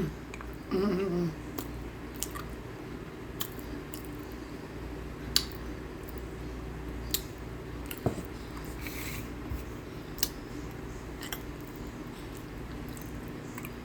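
Cornstarch being bitten and chewed: sharp crunches every second or two, with a short closed-mouth hum about a second in.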